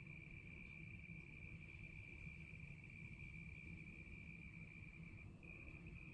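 Faint, continuous trilling of crickets: one steady high-pitched tone, briefly faltering near the end, over a low background rumble.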